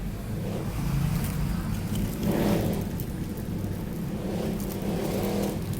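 Steady low rumble of background noise, with a few faint clicks and rustles of small mount parts and packaging being handled.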